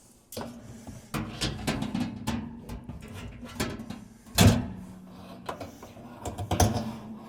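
Dishwasher parts being fitted back into the tub: a run of irregular plastic clicks and knocks, with one loud knock about four and a half seconds in.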